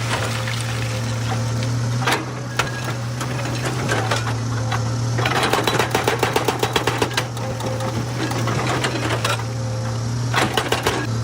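Excavator's diesel engine running steadily while a hydraulic rock breaker hammers stone in rapid bursts, one burst about five seconds in lasting a couple of seconds and another near the end.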